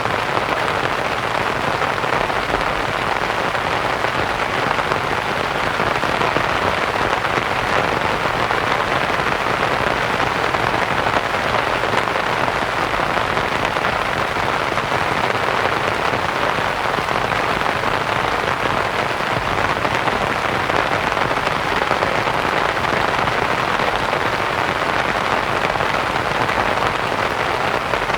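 Steady rain falling on a canvas tent, mixed with white noise: an even hiss with no single drops, thunder or other events standing out.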